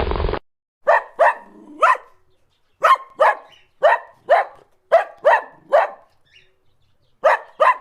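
About a dozen short, sharp animal calls in quick groups of two or three, with silent gaps between the groups. A loud noisy sound from the previous clip cuts off abruptly just after the start.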